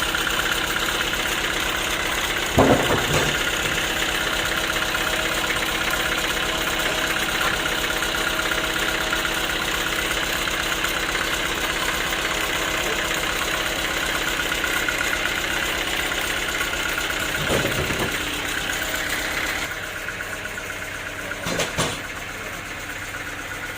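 Homemade band sawmill running steadily, with three sharp knocks spread through it. The machine sound drops somewhat near the end.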